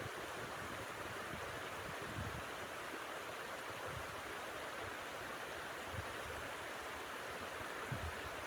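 Steady rushing of blizzard wind, with low gusts buffeting the microphone about every two seconds.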